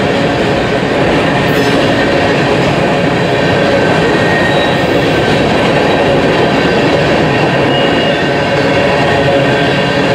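Covered hopper cars of a freight train rolling past: a loud, steady rumble of steel wheels on rail, with faint high wheel squeals now and then.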